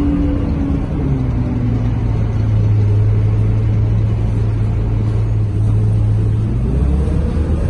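Scania K230UB city bus's nine-litre five-cylinder diesel, heard from on board. Its whine falls away as the bus slows in the first second, it runs at a steady low idle hum for several seconds, and near the end it pulls away again with a rising whine.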